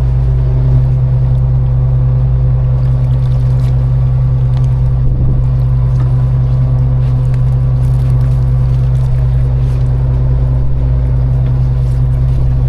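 A fishing boat's engine running steadily, a constant loud low drone with a few faint clicks over it.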